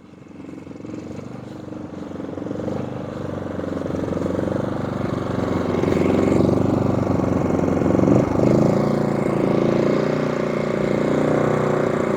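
Champion 5,500-watt inverter generator's 224cc engine running as it is taken out of eco mode. Its sound grows louder over the first six seconds or so, then holds steady, with a single brief knock about eight seconds in.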